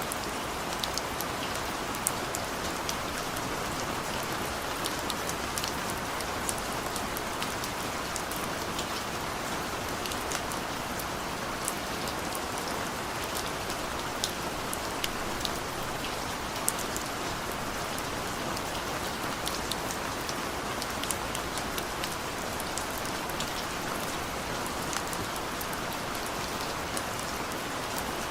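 Steady rain falling, a continuous hiss with many individual drops ticking sharply on a surface close by. No thunder is heard.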